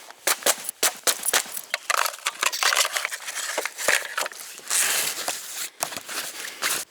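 Camping gear being handled and packed: a busy run of clicks and knocks with stretches of rustling as items are picked up, shifted and set down.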